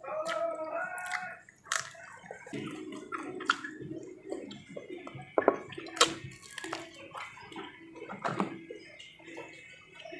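Close-miked wet mouth sounds of a person eating papaya leaves and petai beans: chewing and smacking, with sharp clicks scattered throughout.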